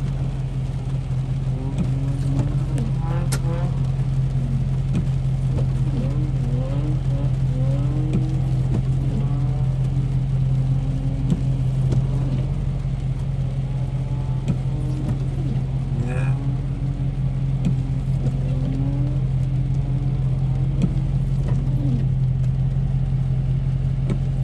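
Car engine running at a steady, unchanging pitch.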